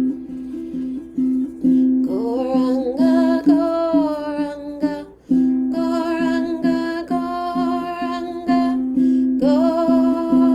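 Kirtan chanting: a woman's voice singing a mantra in long held phrases over a steadily strummed stringed instrument.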